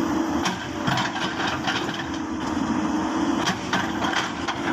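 Komatsu D85PX bulldozer's diesel engine running steadily under load while it pushes into a mango tree, with irregular sharp cracks and snaps from the tree's wood and roots.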